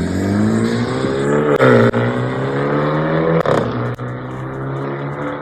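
Car engine accelerating through the gears, its pitch climbing steadily and dropping at shifts about a second and a half and three and a half seconds in, then holding steady.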